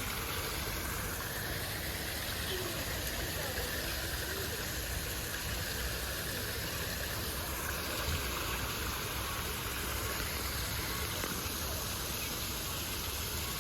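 Steady rushing of falling water, with faint voices in the background.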